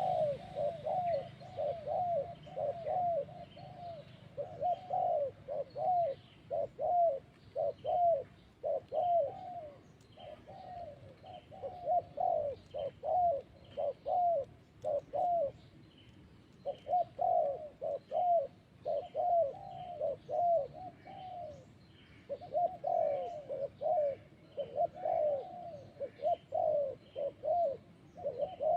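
Spotted dove cooing over and over, in runs of short coo notes broken by brief pauses, with faint chirps of small birds higher up.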